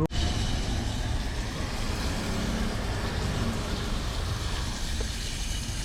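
Pot of water at a rolling boil over a burner: a steady, even bubbling noise with a low rumble underneath, starting abruptly after a brief break.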